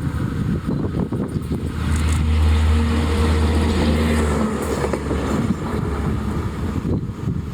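Diesel engine of a railway overhead-line maintenance vehicle running as it passes along the track, a low steady drone that is loudest about two to four seconds in and drops away soon after.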